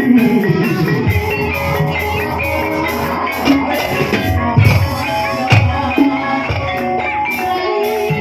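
Live ebeg gamelan accompaniment: ringing metallophone notes over hand-drum strokes, with a few heavier drum beats near the middle.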